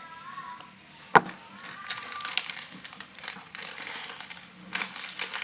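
Crisp crackling and crinkling from a crunchy fried noodle snack (mie kremes) being handled and eaten, with one sharp snap about a second in.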